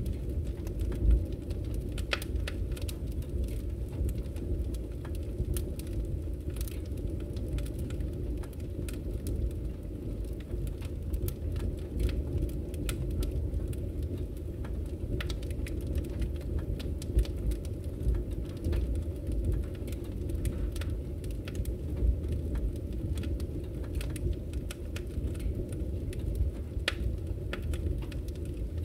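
Wood fire crackling in a fireplace: a steady low rumble of the burning with frequent small pops and snaps, a few sharper pops standing out.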